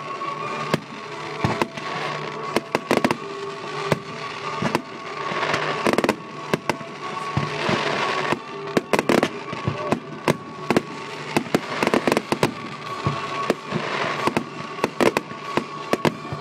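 Fireworks display: aerial shells bursting with many sharp bangs and crackle, in rapid, irregular succession.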